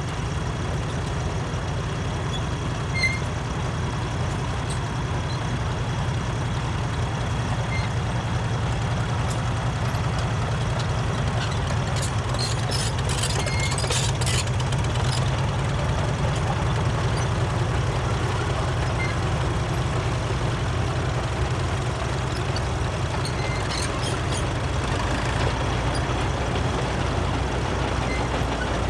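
Antique tractor engines running steadily at low speed, with a cluster of light clicks about halfway through and a few more later.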